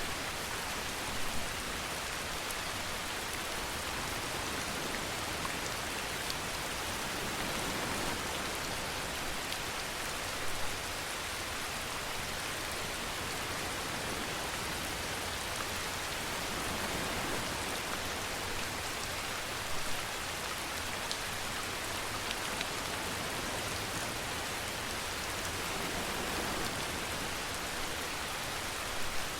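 Steady rainfall, an even hiss of rain on surfaces, with a few brief louder drop hits.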